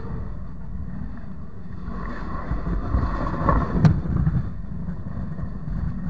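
Freight train cars rolling directly overhead, heard from between the rails: a steady, muffled rumble of steel wheels on the rails, with one sharp clack about four seconds in.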